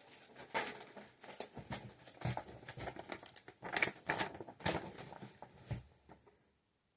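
Irregular rustling and knocking handling noises for about six seconds, then quiet.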